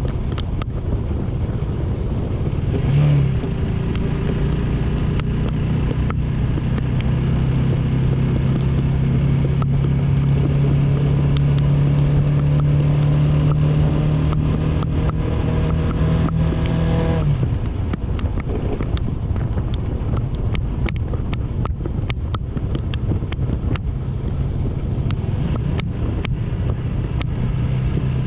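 AKT GP 180 motorcycle engine running while riding, with wind rushing on the microphone. The engine holds a steady note for most of the stretch, picks up briefly about three seconds in, and drops suddenly about seventeen seconds in as the throttle is eased off.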